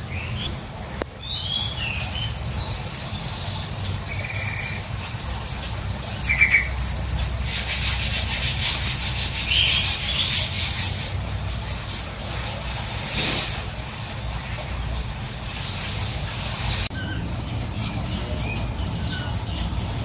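Birds chirping: short, high chirps repeated many times, over a low steady hum.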